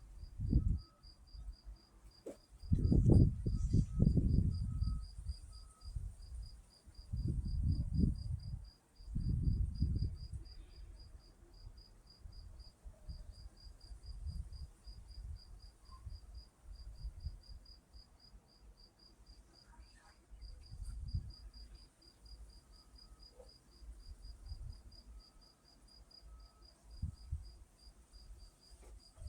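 Cricket chirping steadily, a high pulse repeating about three to four times a second. Louder low rumbles come and go a few seconds in and again around eight to ten seconds in.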